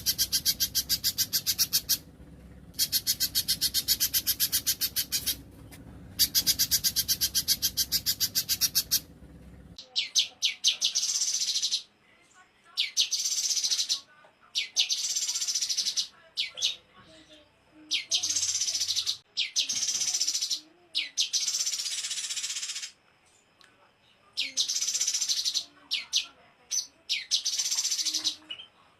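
Recorded songs of small songbirds. For the first ten seconds come three rapid, buzzy trilled bursts of about two seconds each. After a cut there is a series of shorter, high-pitched song phrases with brief pauses between them.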